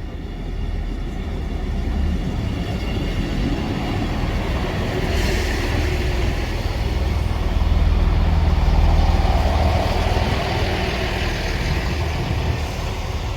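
Diesel train running into a station, its low engine and wheel rumble building to a peak about two-thirds of the way through, with a short hiss about five seconds in.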